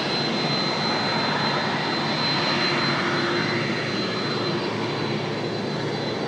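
Jet airliner's engines running, a steady roar with a thin high whine that fades near the end.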